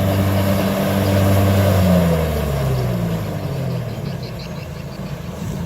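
Kubota DC60 combine harvester's diesel engine running steadily, then dropping in pitch and fading from about two seconds in.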